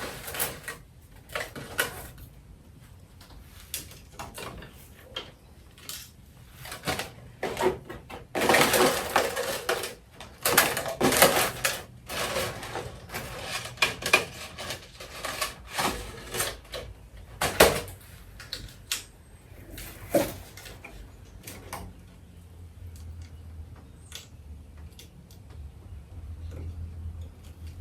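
Irregular clicks and clatters of hard plastic parts being handled, with short rattling stretches typical of zip ties being pulled tight to hold a cracked animatronic prop together.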